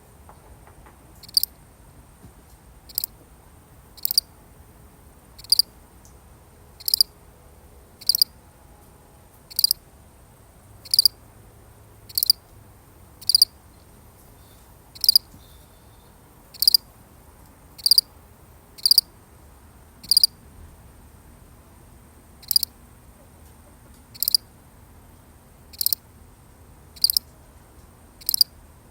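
A single cricket chirping, short sharp chirps about every second and a bit, with one longer pause about two-thirds of the way through.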